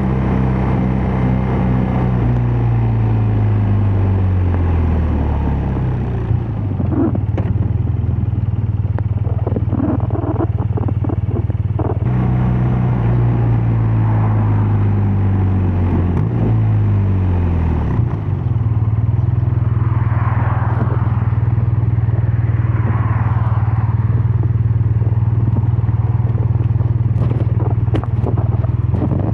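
BMW R12 nineT's air/oil-cooled boxer twin engine and exhaust running on the road. The engine note falls over the first few seconds and runs level for a while. About halfway through it jumps back up and falls again, then holds steady to the end.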